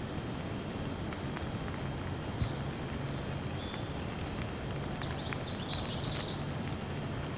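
Steady rain falling, with scattered drop ticks, while a bird chirps in quick high notes, densest from about five to six and a half seconds in.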